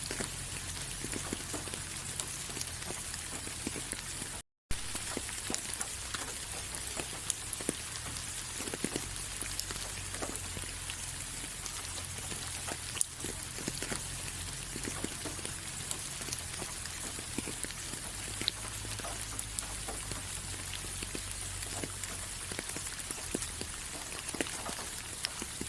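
Steady rain, with many separate drops heard as small sharp taps over an even hiss. There is a brief cut to silence about four and a half seconds in.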